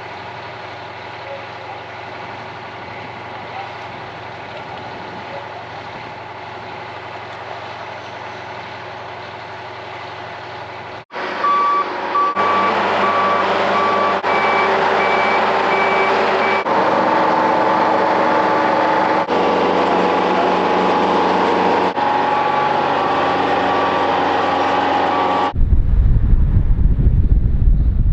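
A heavy vehicle's engine running steadily, then its reversing alarm beeping about twice a second for several seconds over louder engine noise. A loud low rumble comes near the end.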